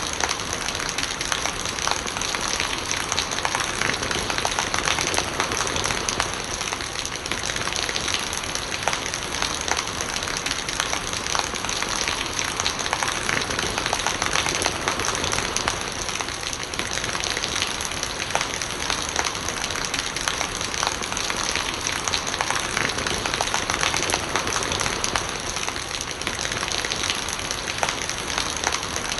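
Steady rain pattering on surfaces, with running rainwater gurgling and many small drop ticks.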